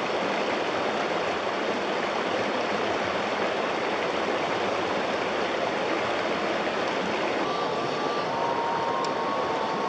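River water rushing steadily. About seven and a half seconds in, a thin high whine joins it: the 370 electric motor and metal gearbox of a 1/16 scale RC crawler truck.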